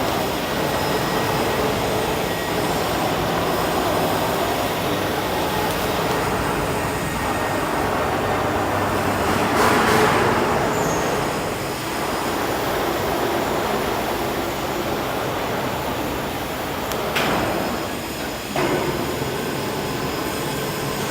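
Machinery running steadily with a continuous rumbling noise, swelling louder about ten seconds in, with two sharp knocks near the end.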